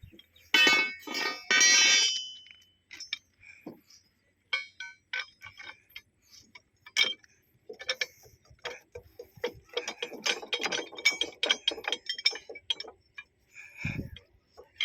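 Metal tools and track fittings clanking and clinking, with a few loud rasping, ringing clanks in the first two seconds, scattered clicks, and a busier stretch of clatter about ten seconds in.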